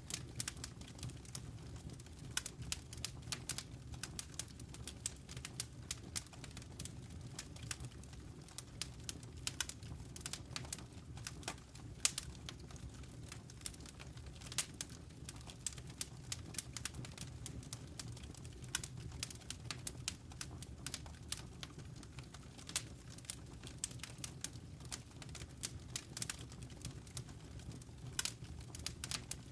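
Fire burning in a fireplace, crackling with frequent irregular sharp pops and snaps over a steady low rumble.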